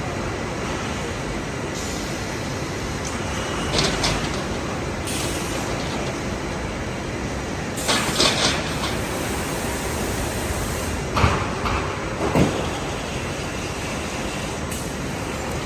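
Rock wool production line machinery running with a steady loud noise, with a handful of short metallic clanks or knocks.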